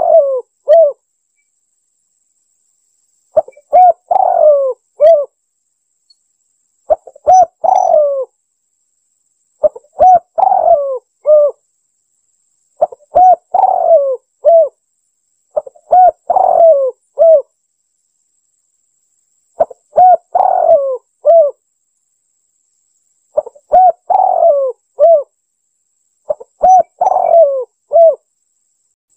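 Spotted dove (tekukur) cooing: a phrase of several low, humped coo notes, repeated about every three to four seconds with silence between.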